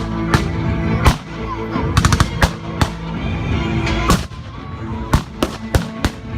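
Blank gunfire: scattered single shots and a short rapid burst of about five shots about two seconds in, over background music.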